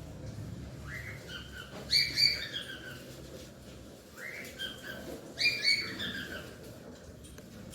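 A bird singing a short phrase of bright notes that slide downward in pitch, repeated about every three and a half seconds, over a faint low rumble.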